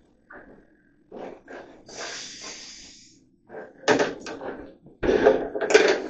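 A string of knocks and bangs with a scraping hiss about two seconds in; the heaviest bangs come in the last second or so.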